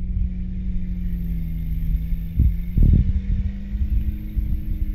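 Off-road 4x4's engine running steadily under load as it crawls through deep mud, with a few low thumps about halfway through.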